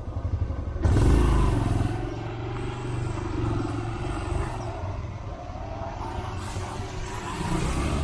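Motorcycle engine running on the move, getting louder about a second in and then running steadily.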